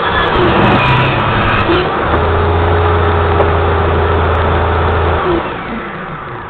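A loud motor running with a steady hum, which cuts off about five seconds in and then dies away.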